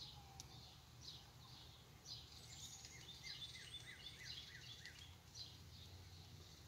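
Faint outdoor birdsong: a run of about eight quick descending chirps in the middle, with scattered higher chirps around it, over a low steady background hum.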